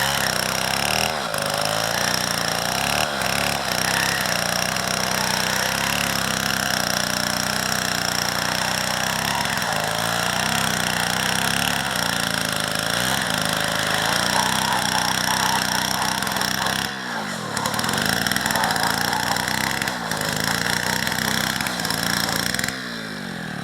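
Small two-stroke chainsaw running at high revs while cutting through a tree. Its engine note dips briefly about seventeen seconds in and falls away near the end as the revs drop.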